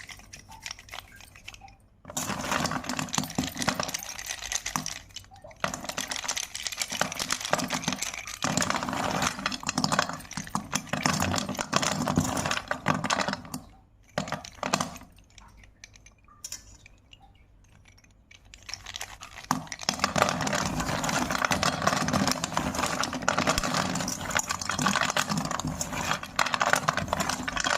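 Slate pencil being crunched and chewed: a dense, gritty crackling that starts about two seconds in, pauses briefly around the middle, then returns and continues.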